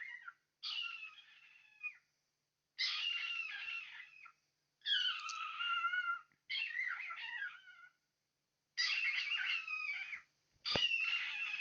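Pet cockatiel chattering in a string of about six short phrases, each about a second long, with a wavering, bending pitch. Two brief taps come near the end.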